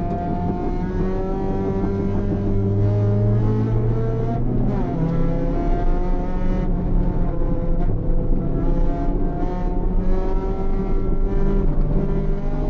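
Honda Civic race car's B18C four-cylinder engine heard from inside the cabin, pulling hard on track. Its note climbs for the first few seconds, breaks about four and a half seconds in, then rises and falls again through the corners.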